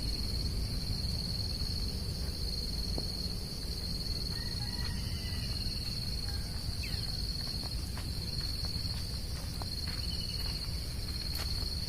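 Insects trilling steadily in one unbroken high-pitched drone, over a low rumble. There are a few faint bird chirps around the middle and some light clicks near the end.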